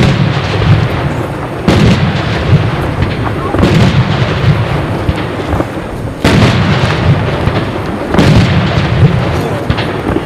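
Aerial fireworks shells bursting in a display: five loud bangs about two seconds apart, each followed by a long rumbling, crackling tail that fades before the next.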